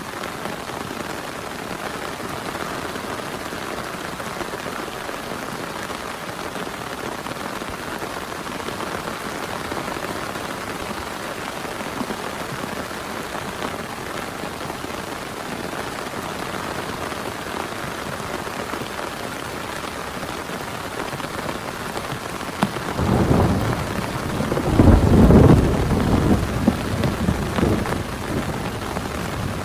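Steady heavy rain falling, with a low roll of thunder that builds about three-quarters of the way through and fades near the end.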